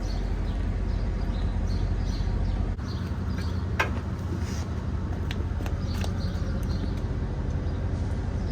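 Outdoor background: a steady low hum with faint bird chirps and a few sharp clicks, the loudest nearly four seconds in.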